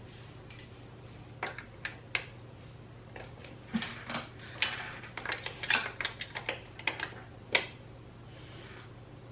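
Metal hand-tool clicks and clinks as a wrench works a nut on a Honda CR125's two-stroke top end: an irregular string of sharp clicks, busiest in the middle.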